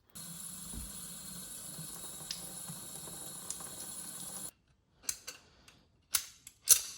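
Steady background hiss with a faint hum that cuts off after about four and a half seconds, then a handful of short, sharp metallic clicks and scrapes from small brass parts of an espresso machine's solenoid valve being worked with a pin and handled.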